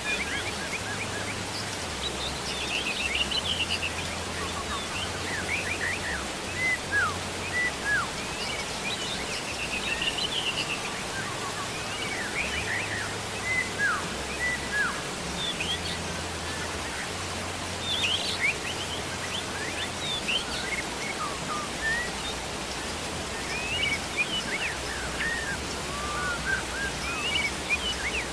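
Steady rain hiss with many birds chirping throughout, in short, quick falling calls. A faint low hum comes and goes underneath.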